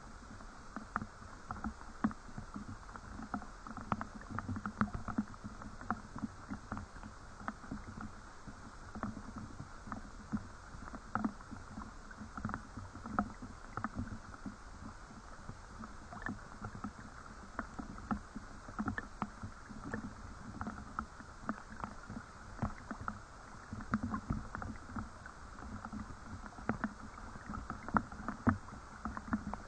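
Rain with irregular drips and small water splashes, many light taps a second over a faint steady hiss.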